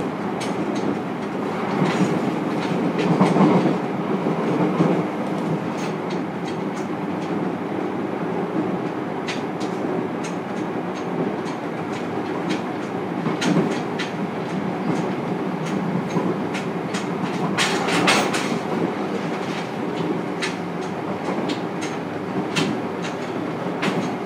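Inside a JR Kyushu 303-series electric train's motor car running at speed: a steady rumble of wheels on rail, with a few steady low hum tones. Sharp wheel clicks over rail joints come irregularly, loudest in a quick cluster about 18 seconds in.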